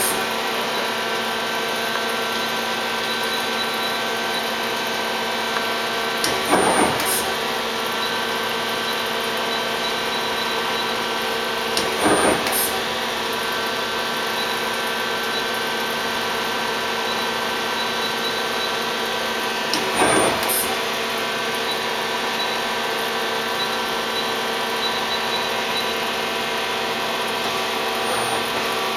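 Okuma LU-15 CNC turning center running under power: a steady machine hum made of many held tones, broken by three short, louder bursts about six to eight seconds apart.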